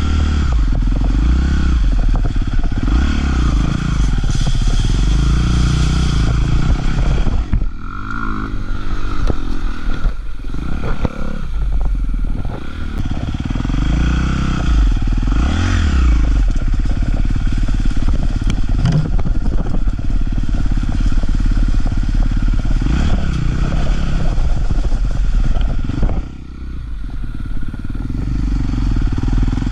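Honda dirt bike engine running under riding load, its revs rising and falling again and again as the throttle is worked, with rattling and clatter mixed in. Near the end it drops off briefly, then picks up again.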